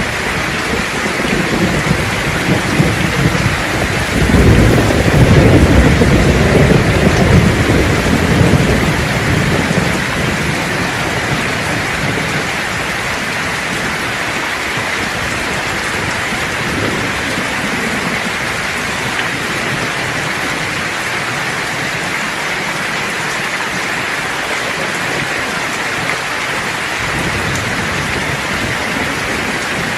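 Steady rain falling, with a long roll of thunder that swells a few seconds in, peaks, and rumbles away by about ten seconds, leaving the rain alone.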